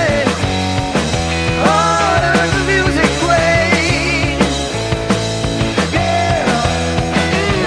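Psychedelic rock music with a bending, vibrato-laden lead electric guitar over bass and drums.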